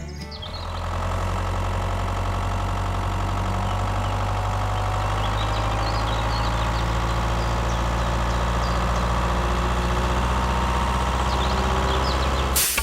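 Engine running steadily at one low pitch, then cutting off abruptly near the end.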